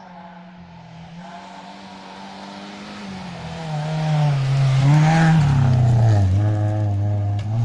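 A rally car approaching at speed on the stage. The engine gets louder from about three seconds in and is loudest about five seconds in. The engine note dips and rises as the driver lifts and shifts gear.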